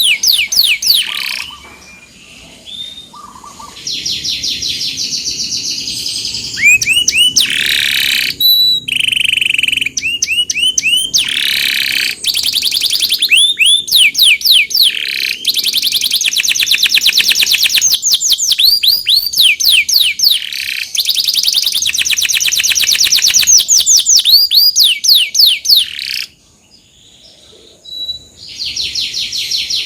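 Domestic canary singing long rolling trills, each a fast run of the same short repeated note, changing from one trill to the next. The song drops away briefly about two seconds in and again near the end before starting up again.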